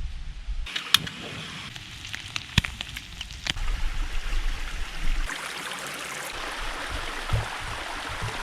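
Stream water running steadily, with three sharp clicks in the first half.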